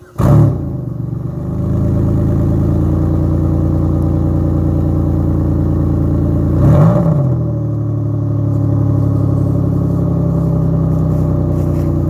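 1999 Pontiac Grand Prix GTP's supercharged 3.8-litre V6 cold-starting: it catches right away with a loud flare, then settles into a steady idle. About seven seconds in it is revved once briefly, rising and falling, before idling on.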